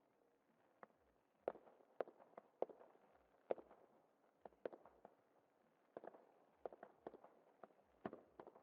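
Fireworks shells bursting in an irregular rapid string of sharp bangs, about two a second, each with a short echoing tail.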